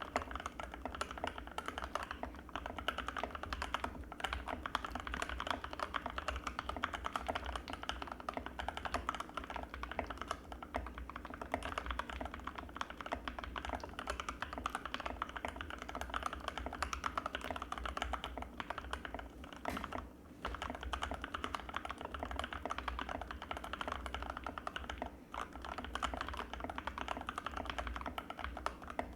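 Fast, continuous typing on an Anne Pro 2 mechanical keyboard with Gateron Red linear switches: a dense stream of keystroke clacks, pausing briefly about twenty seconds in and again about five seconds later.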